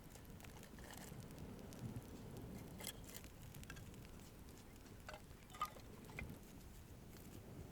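Faint background hiss with scattered light clicks and small knocks, and one sharper click about five and a half seconds in.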